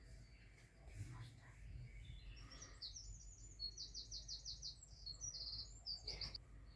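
A small songbird singing faintly: a high, quick song of varied notes with a fast trill of repeated notes in the middle, lasting about four seconds.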